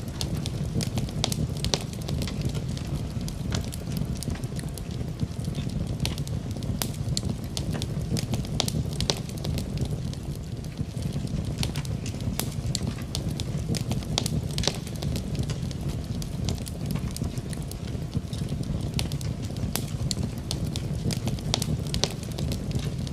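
Wood fire in a fireplace crackling, with frequent sharp pops and snaps over a steady low rushing noise of rain.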